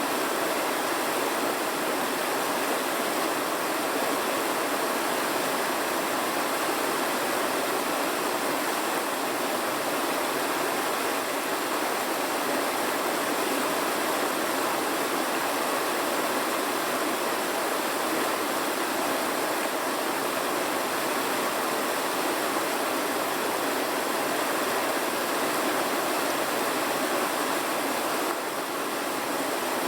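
Steady, even rushing noise, like running water, with no separate pops or knocks and a slight brief dip near the end.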